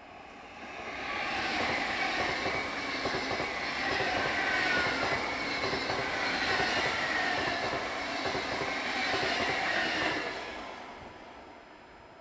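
A Sapsan high-speed electric train passing by: its noise swells about a second in, holds for about nine seconds, then fades away.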